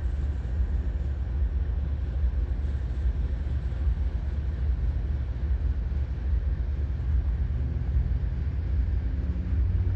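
Steady low engine rumble from a distant vehicle or aircraft.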